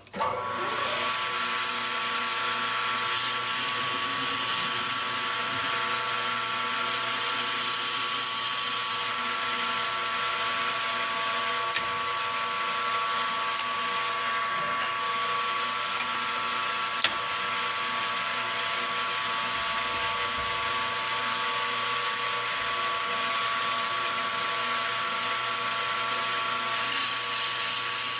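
A shop machine tool's electric motor starts up and runs at a steady speed, with a steady hum made of several fixed tones.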